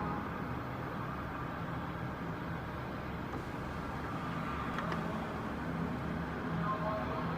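Steady aircraft engine noise, an even rumble with a faint hum and no sharp changes.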